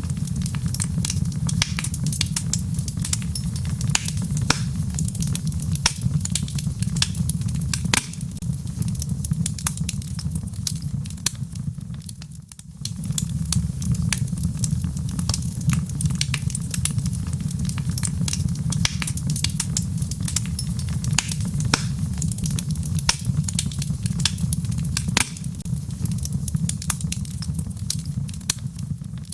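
Wood logs burning in a fireplace: frequent sharp crackles and pops over a steady low rumble of the fire. The sound briefly drops away about twelve seconds in, then resumes.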